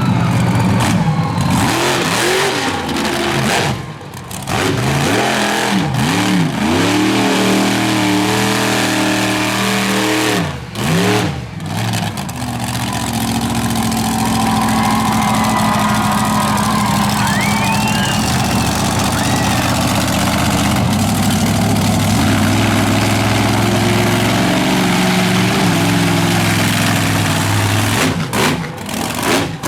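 Monster truck engine revving up and down repeatedly, then held at a steady high rev for over fifteen seconds, dropping off briefly a few times in between.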